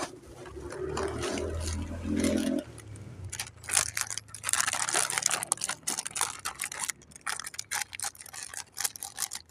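Plastic packaging crinkling and rustling in the hands, in quick irregular crackles from about three seconds in, as cat food is got ready to serve. A low hum with a brief pitched sound comes before it.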